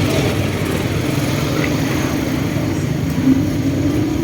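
Motocross dirt bike engine running steadily, briefly louder a little over three seconds in.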